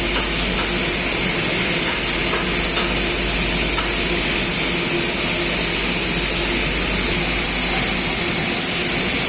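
Gas-fired mini stack aluminium melting furnace running under power: a steady, unbroken hiss from its burners and combustion air, with a faint steady hum underneath.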